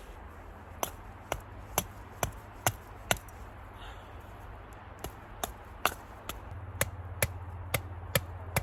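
Repeated sharp blows of a hand tool striking wood, about two a second: six blows, a pause of about two seconds, then another run of blows.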